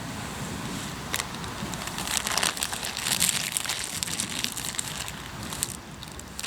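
Hardwood campfire crackling, with a dense run of sharp pops and snaps in the middle.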